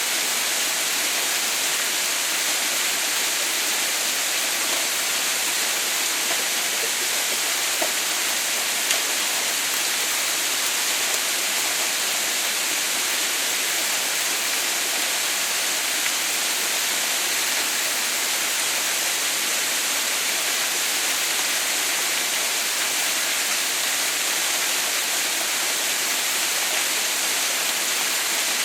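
Water pouring down an icy waterfall: a steady, even rushing hiss with no let-up. A couple of faint ticks sound about eight and nine seconds in.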